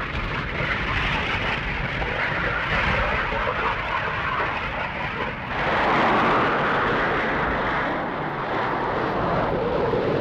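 Jet aircraft engines running at high power during carrier launches, a loud steady jet noise that grows louder about halfway through.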